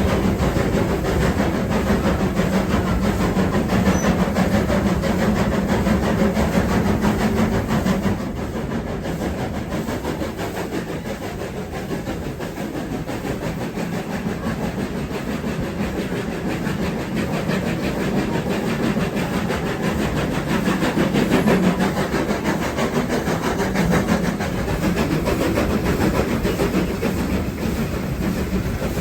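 Train running on the line: steady running noise with a steady engine tone that drops away about eight seconds in, where the sound turns quieter before building again.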